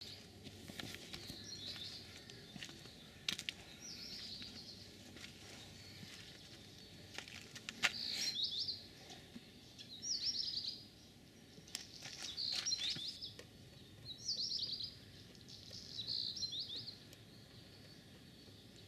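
A small bird singing a short phrase of quick notes, repeated about every two seconds, over steady outdoor background noise, with a few sharp clicks.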